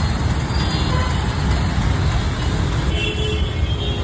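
Steady road traffic noise from vehicles moving through the junction, with a brief horn toot about three seconds in.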